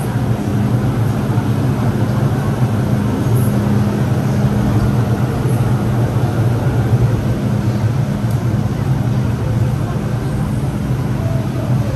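Steady rumble and low hum of an MTR M-Train on the Disneyland Resort Line, even throughout with no sudden events.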